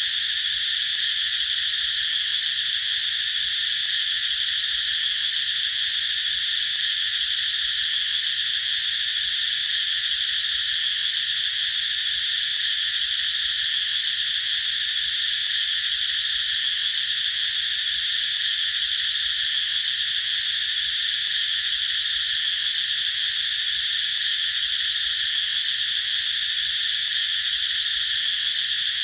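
Cicadas singing in a steady, unbroken high-pitched buzz.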